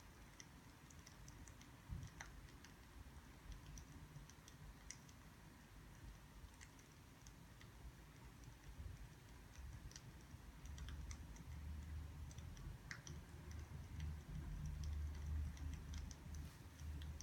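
Faint, irregular crackles and small pops of burning firewood, with a low rumble that grows louder in the second half.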